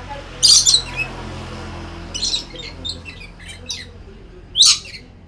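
A lory screeching: one loud, harsh screech about half a second in, a run of shorter squawks from about two seconds, and another loud screech near the end.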